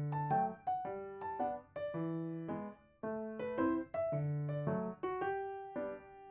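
Background piano music: calm chords and melody notes, each struck and then fading away.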